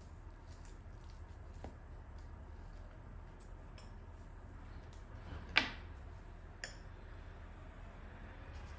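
Kitchenware clinking: one sharp, ringing clink about five and a half seconds in and a lighter one a second later, with a few faint clicks over a low steady hum.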